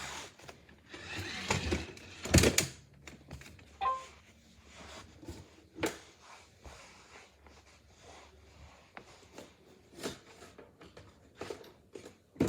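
Irregular knocks, clicks and rustles of objects being handled, with a louder knock about two seconds in and another near six seconds. A brief faint high tone sounds about four seconds in.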